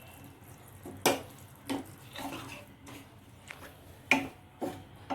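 A spoon or spatula stirring a sauce in a cooking pan, knocking against the pan several times with sharp clinks, the loudest about a second in and about four seconds in.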